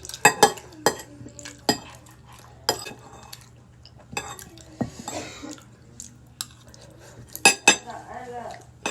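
Eating utensils clinking and knocking against a bowl in sharp, irregular strikes, about ten of them, while noodles are eaten.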